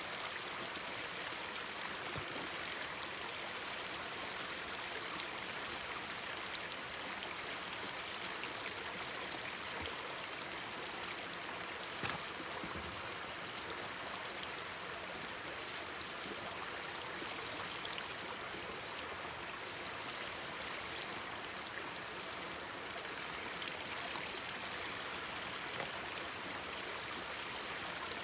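Mountain stream babbling steadily, with a few sharp crackles from a wood campfire, the loudest about twelve seconds in.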